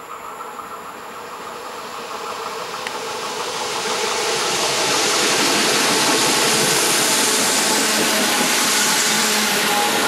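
A train approaching on the line, its rolling noise growing steadily louder over the first half and then holding loud and even as it runs past.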